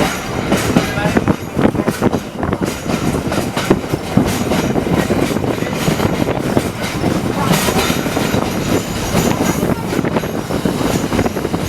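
Vintage Melbourne tram running along its track: a steady rumble from wheels on the rails, with many irregular knocks and rattles.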